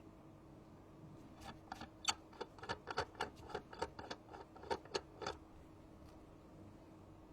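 A quick, irregular run of about twenty small sharp clicks and taps lasting about four seconds, from small tools and phone parts being handled during iPhone repair work, over a faint steady hum.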